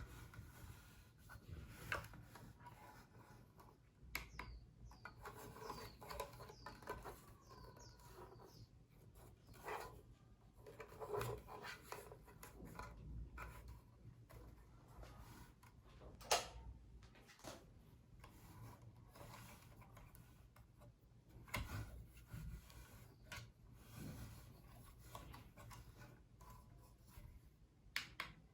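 Faint handling noises: scattered clicks and taps, the sharpest about halfway through, between stretches of soft rubbing and scraping, over a low steady hum.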